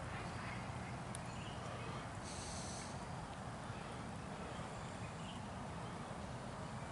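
Faint birds chirping in the evening over a steady low background hush, with a brief high trill about two seconds in.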